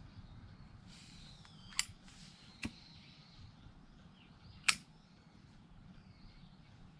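Campfire of split wood crackling, with three sharp pops, the last and loudest a little under five seconds in.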